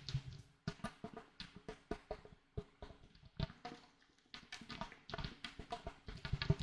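Rapid, irregular fingertip tapping and clicking on hard objects, with a brief lull a little past the middle.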